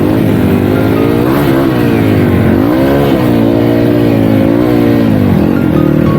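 Dirt bike engine running under load, its pitch rising and falling several times with the throttle.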